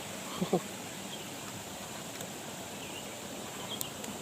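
Steady high chirring of night insects over an even outdoor hiss, with two short pitched vocal grunts about half a second in and a faint click near the end.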